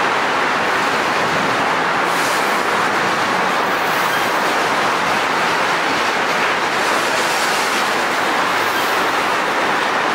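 A train rolling past on the tracks: the steady, loud noise of steel wheels on rail, even throughout.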